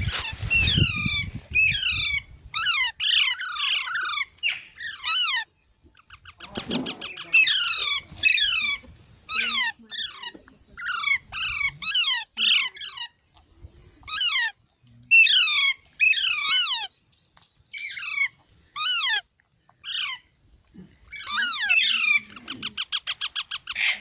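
Young parrots giving a long series of short, harsh, downward-sliding squawks, often several in quick succession. Twice, about six seconds in and near the end, the squawks are broken by a rapid stuttering trill.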